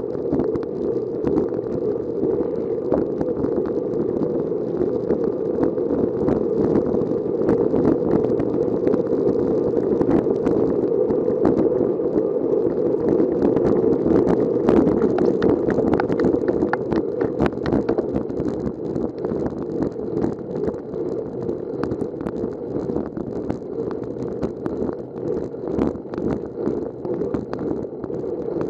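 Wind rushing over the microphone of a camera riding on a bicycle, with a rapid run of small ticks and rattles from the bike on the road.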